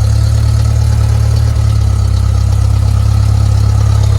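Cessna 172's piston engine running steadily, a loud, even drone heard from inside the cabin.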